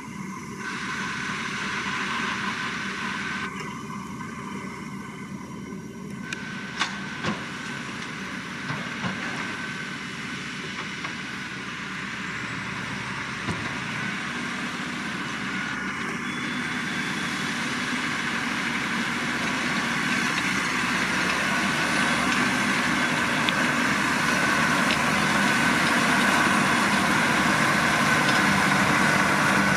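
Massey Ferguson 7620 tractor engine running under load while it drives a McHale V660 round baler, with a steady whine and a few sharp clacks from the machinery. The sound grows steadily louder over the second half as the outfit draws closer.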